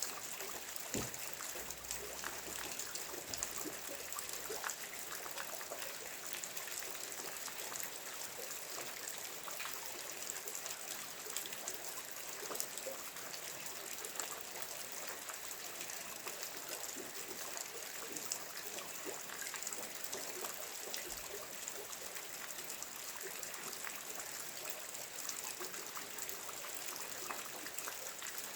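Steady rain: an even hiss sprinkled with many small, sharp drop ticks, with no let-up or change.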